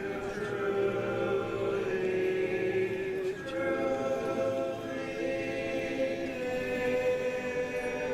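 Barbershop chorus singing a traditional song a cappella in close harmony, with long held chords and a brief break about three seconds in.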